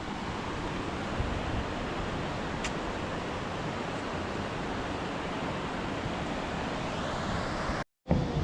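Steady rush of water from a shallow stream tumbling over small rocky cascades, broken by a short silent gap near the end.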